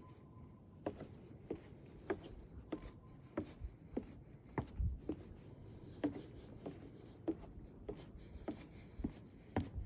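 Footsteps on a wooden boardwalk and steps, an even walking pace of short knocks at nearly two steps a second.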